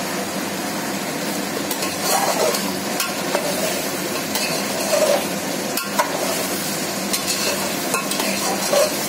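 Chicken pieces frying in oil in a metal pot, sizzling steadily while a spatula stirs through them, scraping and knocking against the pot several times. The chicken is at the last stage of bhuna frying, its liquid nearly cooked off and the oil coming to the surface.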